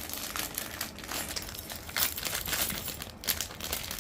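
Crinkling of a plastic Lego parts bag being handled, a dense irregular crackle throughout.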